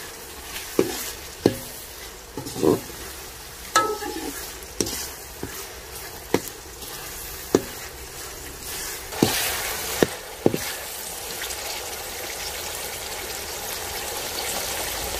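Onions, tomatoes and green chillies sizzling in oil in a karahi while a spoon stirs them, knocking against the pan about a dozen times. The sizzle grows steadier and a little louder in the last few seconds.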